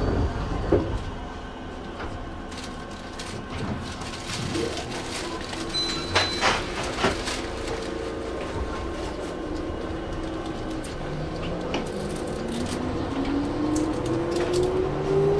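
Keihan electric train running, with sharp clicks of the wheels over the rails near the middle. Near the end a whine from the traction motors rises steadily in pitch as the train picks up speed.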